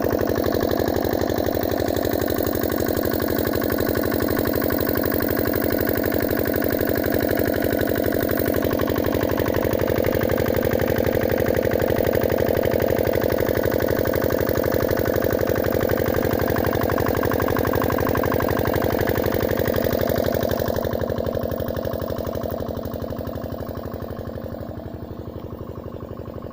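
Comet 5 HP water-pump engine running steadily at a constant speed with an even firing beat, pumping water. It grows gradually quieter near the end.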